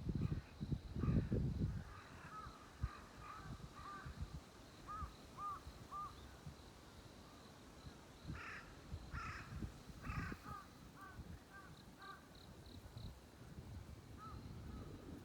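Birds calling at daybreak: a crow gives three harsh caws about two-thirds of the way through, among many short repeated chirps from other birds. A faint high ticking repeats throughout, and there is low rumbling in the first two seconds.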